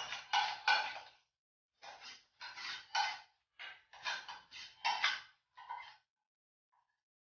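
A spoon scraping and clinking against a bowl and plate as chicken curry is served, about a dozen short strokes in quick groups that stop about six seconds in.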